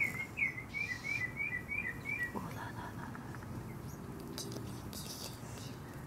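A bird singing a quick run of about nine short repeated chirps that speed up and drop slightly in pitch, ending a little over two seconds in.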